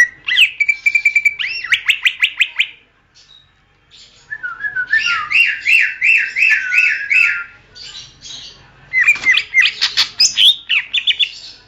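Green leafbird (cucak ijo) singing in three loud phrases with short pauses between: a held whistle breaking into a quick run of notes, then a string of slurred rising-and-falling notes about four a second, then a burst of sharp, varied notes.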